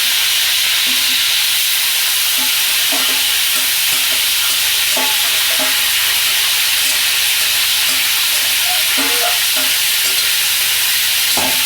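Curd-marinated chicken frying in ghee and oil in a kadai: a steady sizzle.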